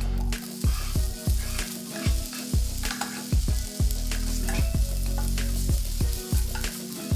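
Food sizzling as it fries in a pan, stirred now and then, over background music with a steady beat.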